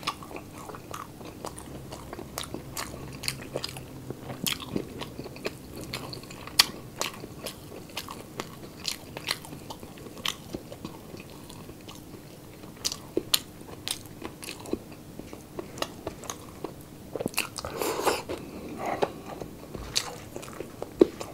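Close-up chewing and crunching of crispy pork sisig, with many sharp crisp crackles throughout. Near the end comes a short throaty mouth sound.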